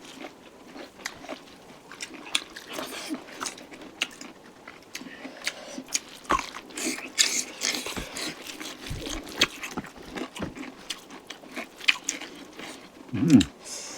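Close-up chewing and biting of chicken curry: wet mouth smacks, crunches and small clicks at an irregular pace. A short hummed vocal sound near the end.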